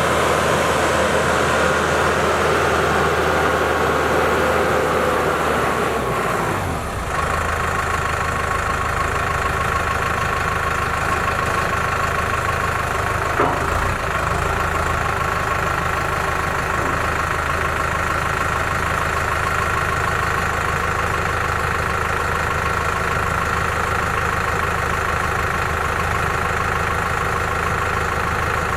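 2008 New Holland T5060 tractor's diesel engine running; its speed drops about a quarter of the way in, then it idles steadily. A single knock sounds about halfway through.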